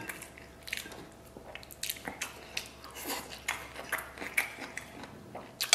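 A person chewing a mouthful of food close to the microphone: irregular short wet smacks and clicks, a few a second.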